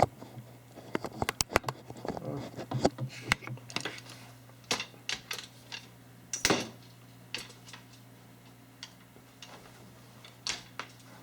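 A handheld camcorder being unclipped from a tripod and handled close to its built-in microphone: a quick flurry of plastic clicks and knocks over the first few seconds, then scattered single clicks.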